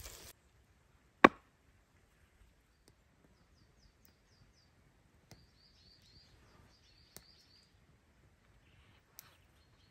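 One sharp crack about a second in, the loudest sound, then a small bird calling in quick runs of short, high chirps, with a few faint clicks between.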